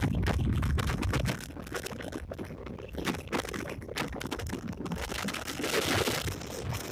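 Passenger train coach running at speed, a dense rattle of wheels and coach fittings with wind buffeting the microphone. It opens with a heavy low rumble that drops away about a second in, and the wind hiss swells near the end.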